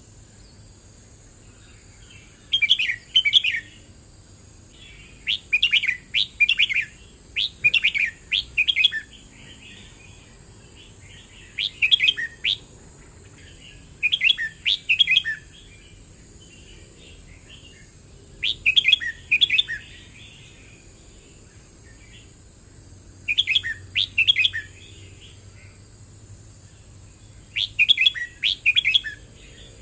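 Red-whiskered bulbul singing: about eight short phrases of quick, bright notes, one every few seconds.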